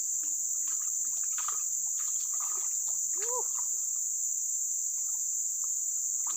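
Steady, high-pitched drone of an insect chorus in riverside vegetation, with a brief rising-and-falling tone about halfway through.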